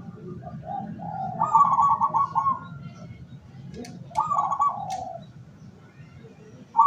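Zebra dove (perkutut) cooing: two calls, each a few short notes running into a fast rattling coo phrase, the second call about a second and a half after the first ends.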